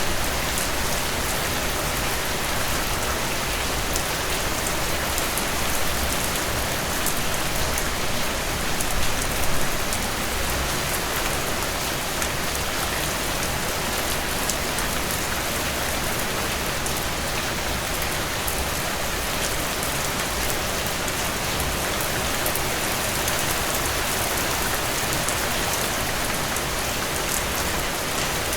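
Heavy rain falling steadily on a tin roof, a dense even hiss with many sharp drop ticks, swelling slightly about a third of the way in.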